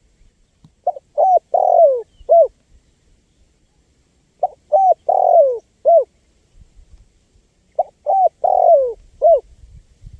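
Spotted dove (tekukur) cooing: three repeated phrases, each of two short coos, a longer coo that falls in pitch, and a short closing coo, about every three and a half seconds.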